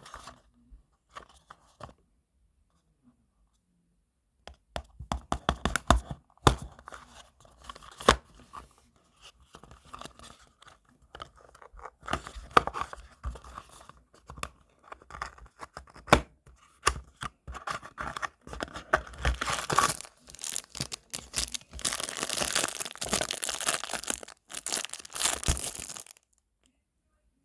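Plastic packaging being torn open and crinkled by hand while unwrapping squishy toys. A few light clicks at first, then continuous tearing and rustling from about four seconds in, growing denser toward the end and stopping suddenly about a second before the end.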